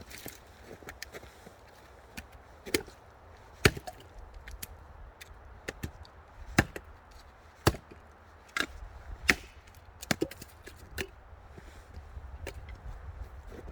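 An axe chopping twigs and small branches into kindling: sharp wooden strikes at an uneven pace, a second or more apart, with lighter knocks and rustles between.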